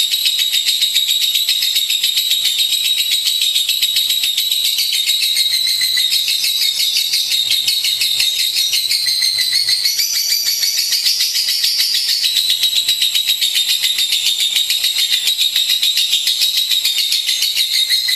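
Lovebird singing a long, unbroken, rapid chattering trill, a fast stream of high chirps.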